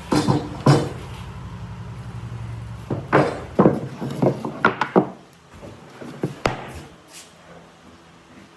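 Irregular sharp knocks and clunks of wooden pieces being handled and set down in a workshop: two near the start, a quick cluster about three to five seconds in, and a last one a little later. A low hum dies away about three seconds in.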